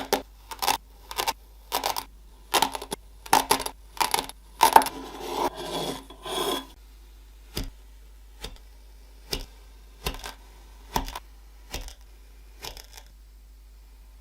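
Kinetic sand being handled in a series of short, crisp strokes, about one to two a second, which turn fainter and sparser about halfway through and stop shortly before the end.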